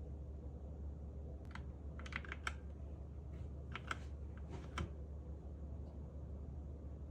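Keys pressed on a Zifriend KA646 mechanical keyboard: two short clusters of clicks, the first starting about a second and a half in and the second about two seconds later, over a steady low hum.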